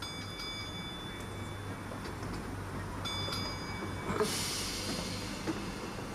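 Two ringing electronic warning tones about three seconds apart, then a sudden hiss of released air, over the steady low hum of an idling train, typical of a train's door warning and pneumatic doors.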